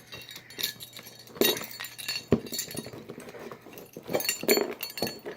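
A bunch of keys clinking and jangling in short, scattered bursts as they are used like a knife to cut open a cardboard box.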